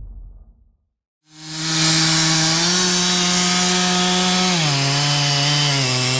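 Stihl MS 660 two-stroke chainsaw starts about a second in and runs at full throttle while cutting into a large beech trunk. Its engine pitch rises a little, then steps down twice as the chain loads up in the cut.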